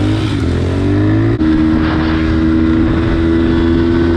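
Pit bike's single-cylinder engine accelerating with its pitch rising, then a brief drop about a second and a half in as it shifts up, after which it runs at a steady pitch at speed.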